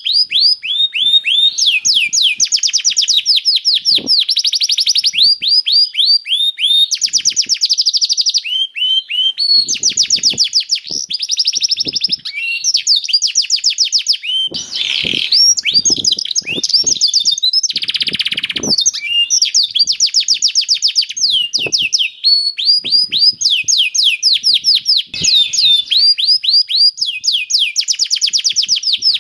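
Male domestic canary singing a long, unbroken song of rapid trilled rolls, each run of quickly repeated high notes changing to the next. There is a harsher, buzzier passage about halfway through, and faint knocks now and then.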